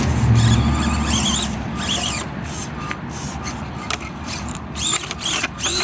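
Small electric motor and drivetrain of a 1/24-scale RC rock crawler whining in short bursts, rising and falling in pitch as the throttle changes, with scattered clicks and knocks from the truck on the rocks.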